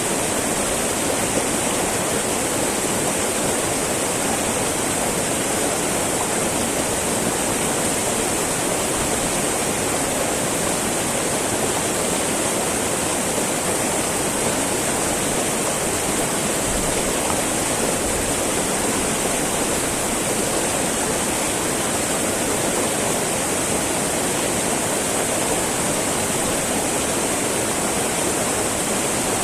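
Small mountain river babbling and rushing over rocks: a steady, unbroken wash of flowing water.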